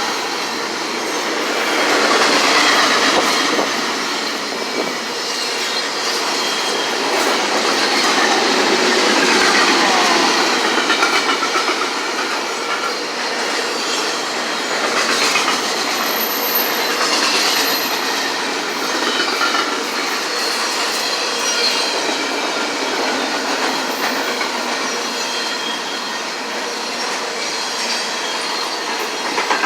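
A train's cars rolling past, with a steady rumble of steel wheels on the rails, thin high wheel squeal and a rhythmic clickety-clack of wheels over rail joints near the end.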